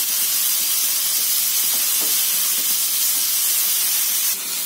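Chopped shallots, tomato and ginger-garlic paste sizzling steadily in oil in a nonstick pan, stirred with a wooden spatula. The mixture is being sautéed until the ginger-garlic paste loses its raw smell.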